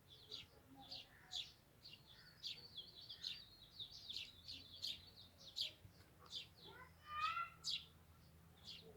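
Small birds chirping: short, high chirps repeated two or three times a second, with a lower, pitched call about seven seconds in.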